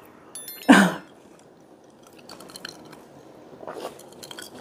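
A person quietly chewing and eating, with light clicks, in a spicy food mukbang. One loud short sound comes about a second in.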